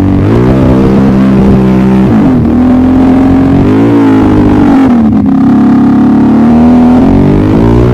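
ATV engine revving, its pitch rising and falling repeatedly as the throttle is worked on and off every couple of seconds.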